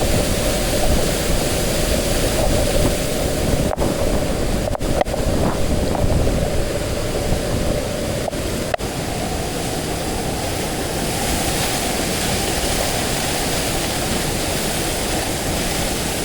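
Rushing water of a waterfall close by: a loud, steady noise with most of its weight in the low end. A few brief dropouts cut into it between about four and nine seconds in.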